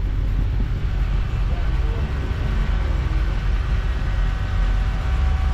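Steady low rumble of a car running, engine and road noise with no sudden events.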